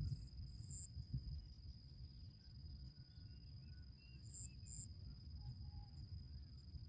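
A steady high-pitched insect trill, like a cricket, over a low rumble, with a few short high chirps about a second in and again at about four and a half seconds.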